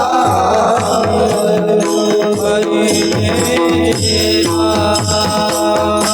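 Kirtan music: a mridang drum beat under steady held tones, with a voice singing, mostly in the first second.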